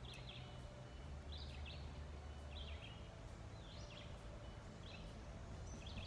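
A bird calling over and over, a short high chirp about once a second, over a low steady rumble of outdoor background noise.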